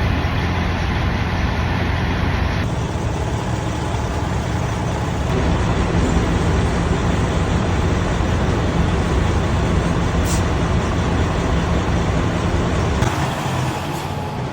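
Truck engine running steadily at low revs, a deep rumble with a short click about ten seconds in; the rumble drops off near the end.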